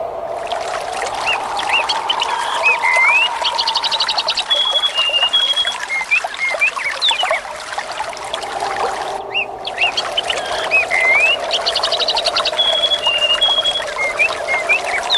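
Nature ambience of running water with birds chirping and a rapid trill, over a steady hiss. The same stretch repeats about every nine seconds, with a brief break in the hiss at each repeat: a looped recording.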